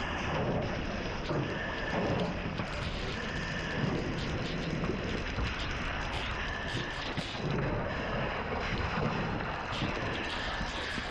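Steady rushing hiss of a fire hose nozzle spraying water, with faint short tones recurring every couple of seconds.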